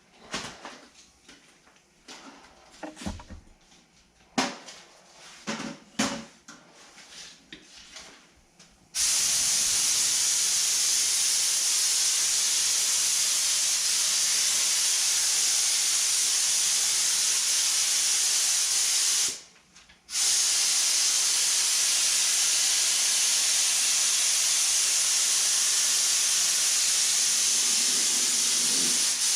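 Scattered light knocks and clicks. Then, about nine seconds in, a loud, steady pressurised spray hiss starts, cuts out for under a second around twenty seconds in, and resumes.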